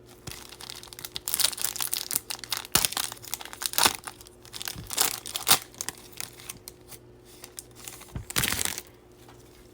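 Foil wrapper of a Bowman baseball card pack being crinkled and torn open: a run of irregular crackly rustles, with a longer burst of crinkling near the end.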